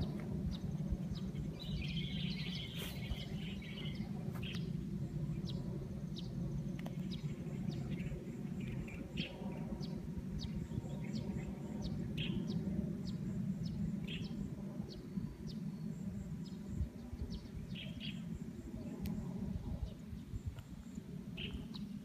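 Birds chirping: short, high calls scattered throughout, with a denser burst of chirps about two seconds in, over a steady low rumble.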